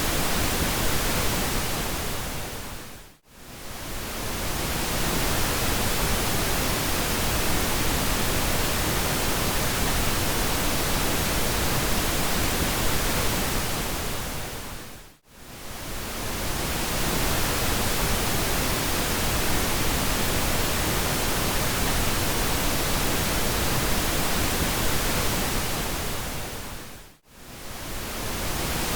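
Steady pink noise, an even hiss with more weight in the lows than white noise. It fades briefly to near silence and back three times, about every twelve seconds.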